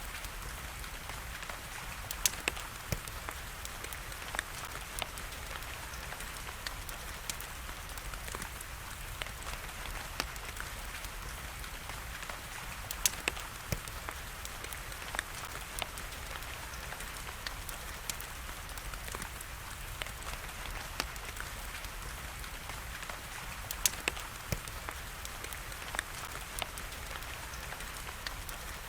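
Steady rain hiss mixed with a crackling wood fire: many small crackles, with a few sharper, louder pops now and then.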